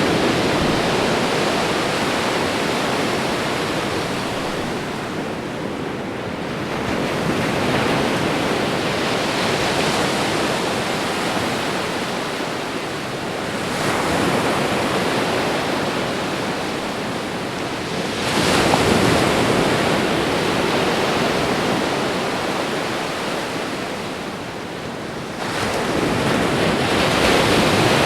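Ocean surf: waves breaking and washing in one after another, each break a surge of rushing noise that fades before the next, about every five to seven seconds.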